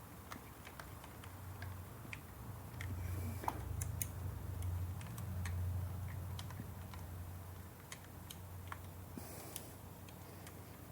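Scattered light clicks of hand tools working the Torx bolts of a new PCV valve on an Audi 2.0 TFSI engine, the bolts being snugged down a little at a time. A low hum underneath grows louder about three seconds in and fades after about six seconds.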